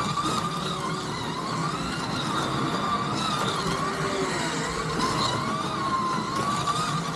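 Scalextric slot car electric motors whining as the cars lap the track. The pitch rises and falls repeatedly as they speed up on the straights and slow for the corners.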